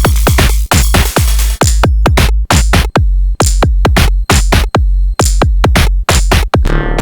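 Sonic Potions LXR-02 digital drum machine playing a steady four-on-the-floor techno kick, about two kicks a second. Busy hi-hat and percussion over it drop away about two seconds in, leaving mostly the bare kick, and a sustained pitched synth tone swells in near the end.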